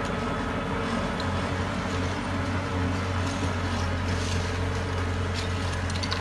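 Heavy diesel engine of earthmoving equipment running steadily, a low, even drone with faint clicks over it.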